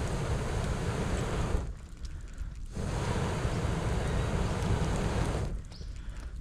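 Air blown through a fire-blowing pipe into a campfire: a rushing blast of air on the fire, in long breaths that stop briefly about two seconds in and again near the end as the blower draws breath.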